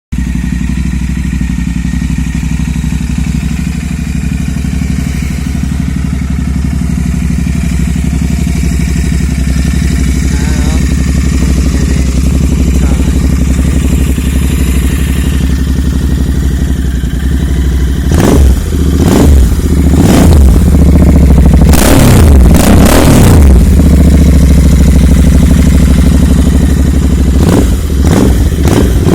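Royal Enfield Continental GT650's 648 cc parallel-twin engine breathing through a modified exhaust, idling steadily for a long stretch, then revved in a series of quick throttle blips through the last third, rising and falling each time.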